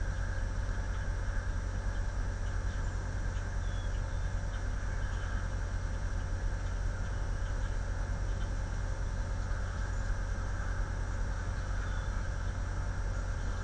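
Steady wind rumble and hiss on an outdoor webcam microphone, with faint short high chirps scattered throughout.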